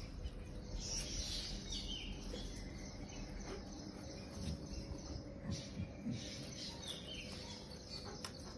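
Birds chirping now and then, short high chirps over steady outdoor background noise.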